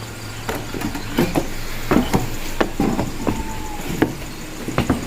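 Footsteps crossing a footbridge: a string of uneven knocks and thuds, roughly two a second.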